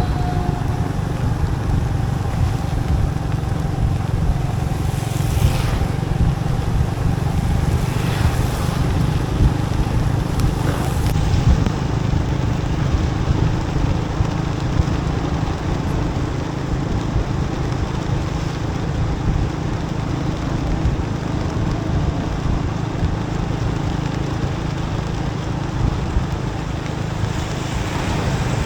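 Motorbike riding on a rain-wet road: the engine running steadily under a constant rush of wind and tyre noise, with brief swells of noise about 5 and 8 seconds in.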